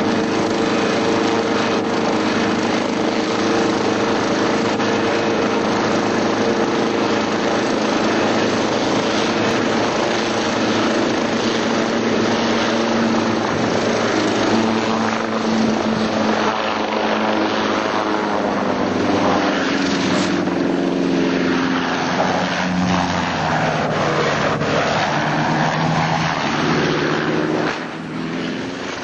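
Helicopter engine and rotor running loud and steady. Its pitch shifts and wanders over the last half, and it falls quieter shortly before the end.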